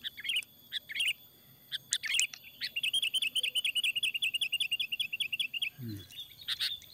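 Songbird singing: a few short chirps, then a fast trill of repeated notes, about seven a second, lasting some three seconds.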